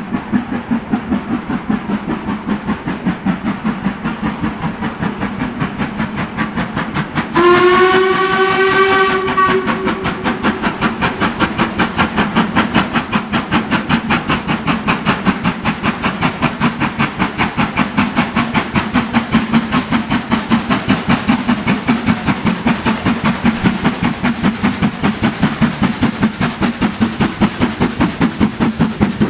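Steam locomotive working under power, its exhaust beating in a fast, even rhythm. About seven seconds in, its whistle sounds once for about two seconds.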